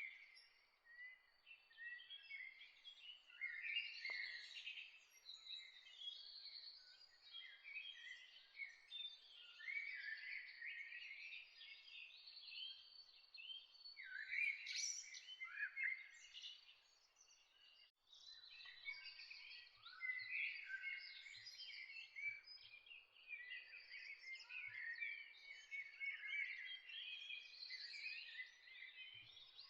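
Many songbirds chirping and singing at once, a dense chorus of overlapping high chirps and trills, with a brief lull about two-thirds of the way in.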